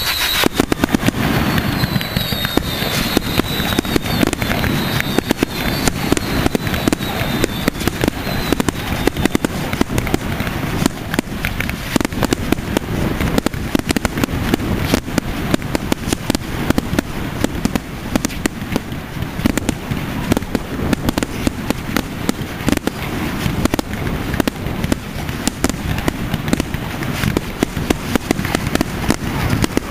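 Fireworks at a display going off in a dense, continuous barrage of bangs and crackling. In the first several seconds a few whistles fall in pitch over the top.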